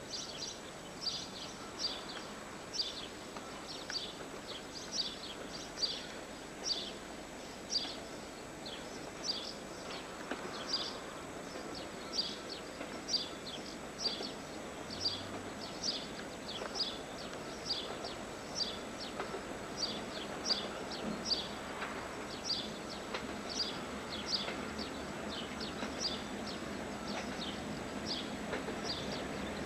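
A small bird chirping over and over, one short high chirp slightly more than once a second. Over the last few seconds the low rumble of an approaching diesel locomotive builds faintly underneath.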